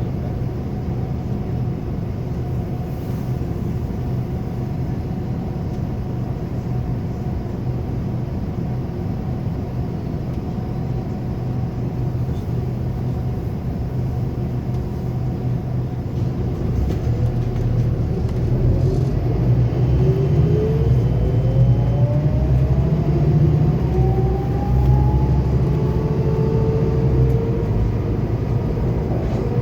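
Scania K280UB4 city bus heard from inside the cabin, its engine and road noise running steadily. About seventeen seconds in the rumble grows louder and a whine climbs in pitch as the bus picks up speed, with a second, higher whine near the end.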